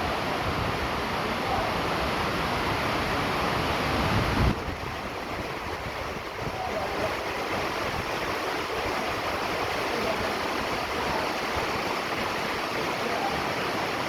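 Steady rain, an even hiss. A low rumble under it drops away about four and a half seconds in.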